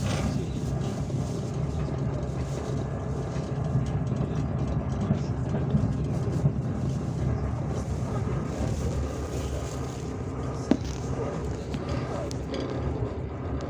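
Steady rumble of a moving passenger train, heard from inside the carriage, with a single sharp click about eleven seconds in.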